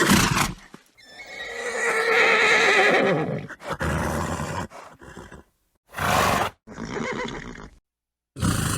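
Horse neighing: a long, wavering whinny about a second in, followed by several short, breathy snorts, with abrupt cuts between them.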